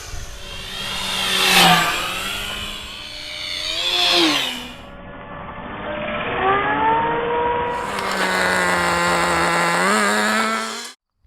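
Electric motor and propeller of an E-Flite RV-7 RC airplane whining on a full-speed pass, the pitch rising and then dropping as it flies by, twice in the first half. After that the whine holds steadier with small changes in pitch, then cuts off suddenly near the end.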